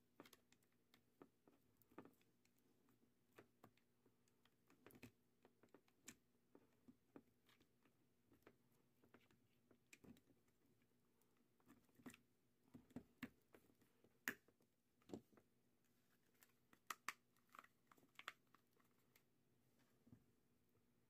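Faint, irregular clicks and taps of small hard parts being handled, the sound of a 12V drill battery pack's cells and plastic casing being worked on by hand.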